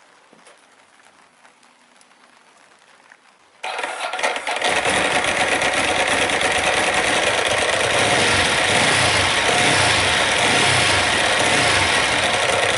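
Ducati 999's L-twin engine breathing through Dominator oval silencers with the dB killers fitted, starting suddenly about three and a half seconds in and then running loud and steady.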